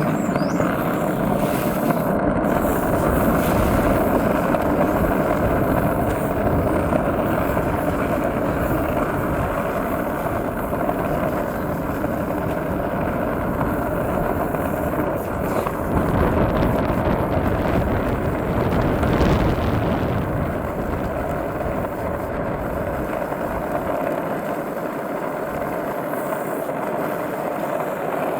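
Steady roar of wheels rolling on an asphalt downhill, with wind rushing over the microphone.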